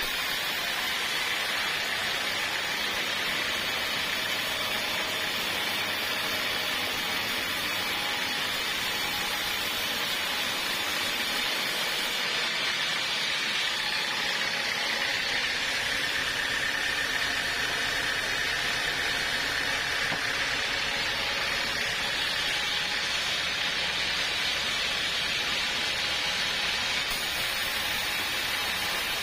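Portable sawmill running steadily as its saw cuts through a log, a continuous even noise with a faint high whine rising out of it in the middle.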